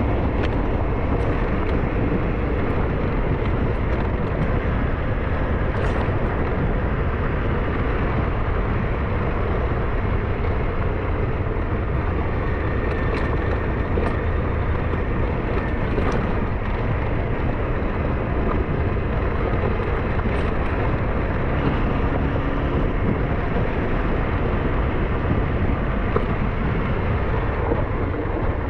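SYM NH T 200 scooter running steadily while being ridden, its engine sound blended with dense road and riding noise, with a few brief ticks scattered through it.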